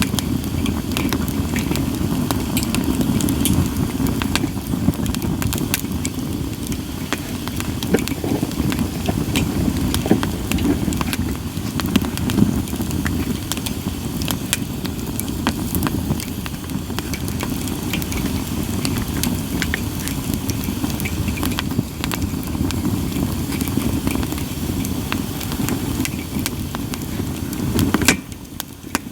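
Split sawtooth oak (kunugi) firewood burning, crackling and popping with many sharp snaps over a steady low rumble. Near the end a loud pop, then the sound briefly drops away.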